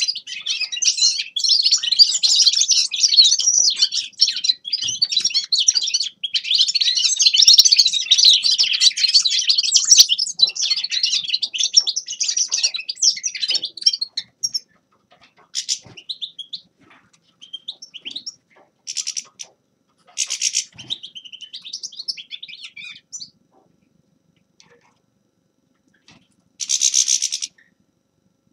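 Finch singing a fast, unbroken twittering song for about fourteen seconds, then breaking into short phrases and single calls, with one short burst near the end.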